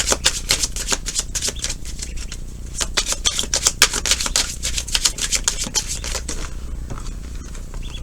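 Tarot cards being shuffled by hand: quick runs of crisp card clicks in three spells, thinning out about six seconds in.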